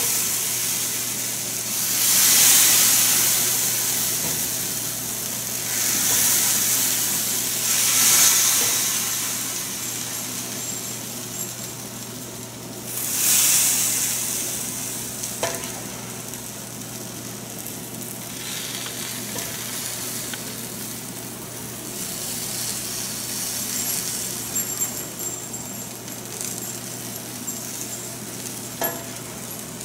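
Food sizzling in a hot pan, the sizzle swelling in several loud waves during the first half, then settling to a steadier, quieter frying with a few light clicks.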